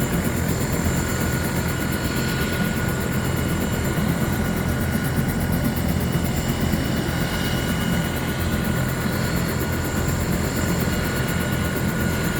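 Helicopter running steadily, a dense, unchanging engine and rotor noise with a thin high whine over it.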